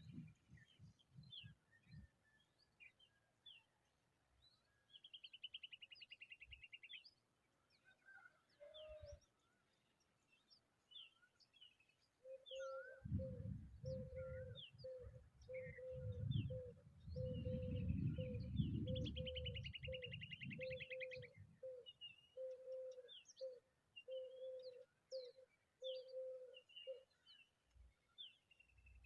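Wild birds calling: many short high chirps and whistles, with two buzzy trills. Through the middle there is a low note repeated about twice a second, over a low rumble.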